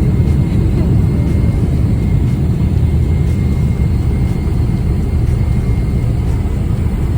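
Steady low rumble of jet engine and airflow noise heard inside the cabin of a Boeing 777-300ER, with a faint steady high tone.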